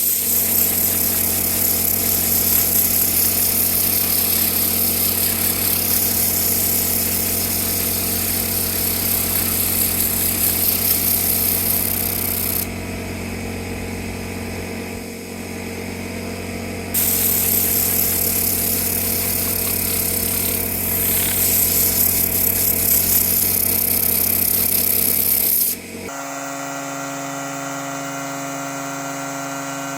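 An electric detailing power tool's motor running steadily, with a strong rushing hiss over its hum. About 26 seconds in it cuts abruptly to a quieter, lower steady hum.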